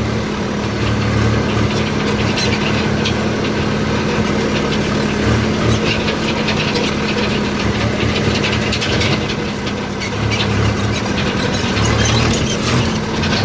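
Agri King tractor's diesel engine running steadily, with a low drone and a continuous clatter of rattling over it.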